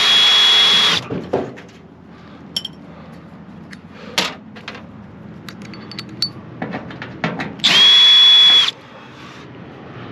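Power drill-driver spinning in two bursts of about a second each, at the start and again about eight seconds in, backing screws out of a microwave oven's casing. Light clicks and taps of metal parts being handled in between.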